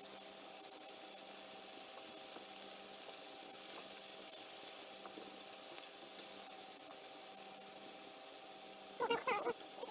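Chicken pieces sizzling steadily in a hot griddle pan on a gas hob as they are turned with tongs. A short, louder, choppy burst of sound comes about a second before the end.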